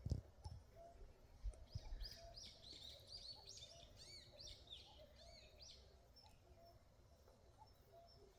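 A small songbird singing a quick series of repeated, arching high notes for about three seconds, starting about two seconds in, over a quiet rural background with a few low thumps near the start.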